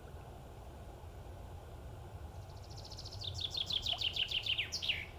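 A bird singing: a fast run of about a dozen short, high notes that steps down in pitch over about two and a half seconds and ends in a quick flourish, starting a little over two seconds in. A steady low background rumble runs underneath.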